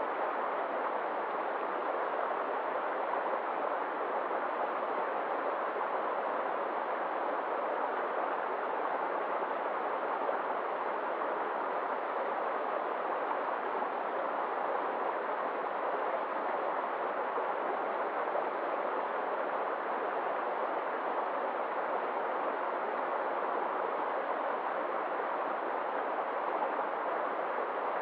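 Steady rush of flowing water, an even wash of sound with no drips or splashes standing out.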